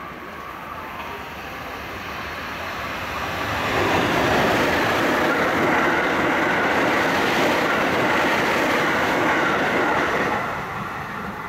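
Limited express Thunderbird electric train passing at speed on wet track. Its noise builds, is loudest from about four seconds in, then drops away shortly before the end.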